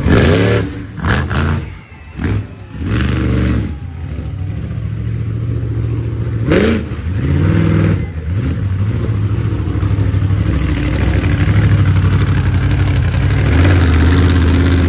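Monster truck engine running, revved up and back down briefly three times in the first seven seconds, then running steadily and a little louder.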